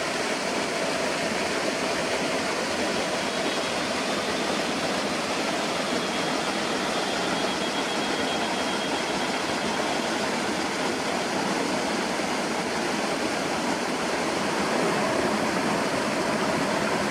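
Flowing water rushing steadily, as of a stream or small waterfall.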